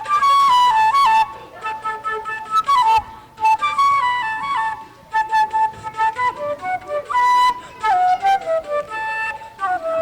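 A student's solo flute playing a melody, one note at a time in short phrases with brief breaks between them.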